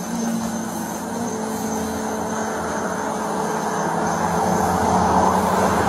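Steady hum of an idling car engine with road noise that grows louder toward the end.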